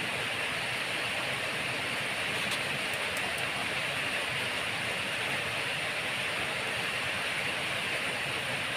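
Steady hiss of falling rain, even and unbroken, with a few faint clicks about three seconds in.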